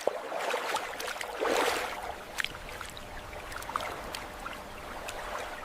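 Water ambience: a soft wash of splashing and trickling with scattered small clicks, swelling briefly about a second and a half in.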